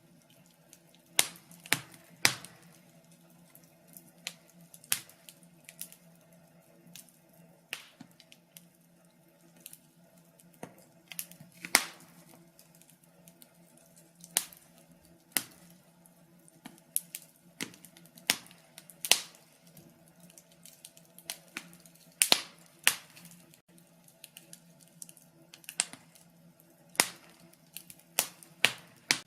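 Wood fire crackling in a fireplace: irregular sharp pops and snaps, roughly one a second, sometimes two or three in quick succession, over a faint steady low hum.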